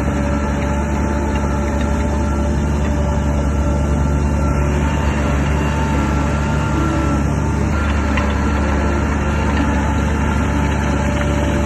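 Shantui DH17 bulldozer's diesel engine running steadily with a deep, even hum.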